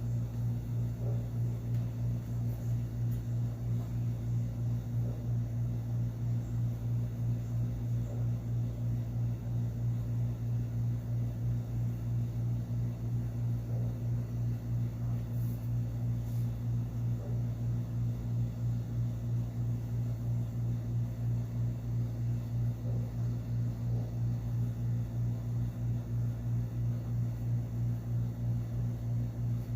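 A steady low motor hum with a slight regular pulsing.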